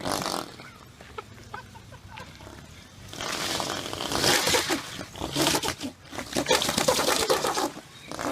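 Loud, raspy car exhaust revved hard in bursts: a blast at the start, a quieter idle with scattered pops, then a long stretch of hard revving from about three seconds in, and one more short blast near the end.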